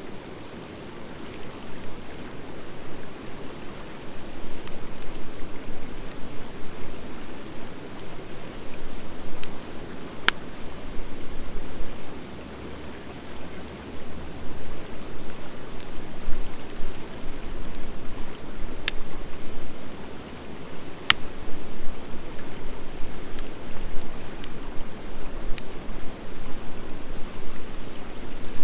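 Wood fire of driftwood and dry hardwood logs burning: a steady crackling hiss broken by several sharp pops, the loudest about ten seconds in.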